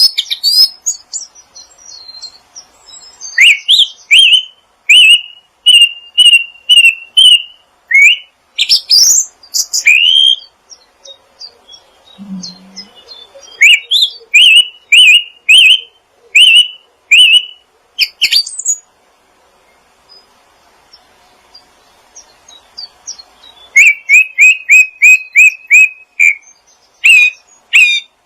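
A songbird calling in loud, sharp, repeated chirps, in runs of about one note a second, with a pause past the middle and a quicker run of chirps near the end.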